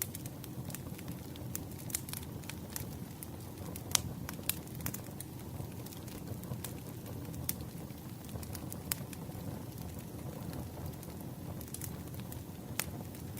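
Campfire burning: a steady low rumble with sharp, irregular crackles and pops, the loudest pop about four seconds in.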